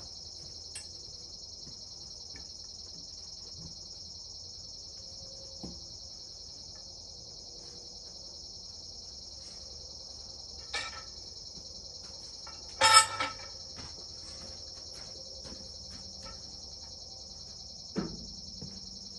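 Steady high chirring of crickets or other night insects, with a few scattered knocks from work on the mill; the loudest is a clank about two-thirds of the way through, and a duller knock comes near the end.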